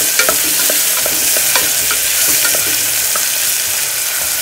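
Chopped onion and green chillies sizzling in hot ghee in a pressure cooker, being stirred, with scattered light knocks and scrapes of the stirring utensil against the pot: the onion frying until its raw smell is gone.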